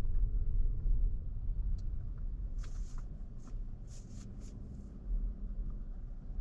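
Low road and tyre rumble inside an electric Tesla Model Y's cabin, fading as the car slows to a stop. A few faint, irregular ticks come about halfway through.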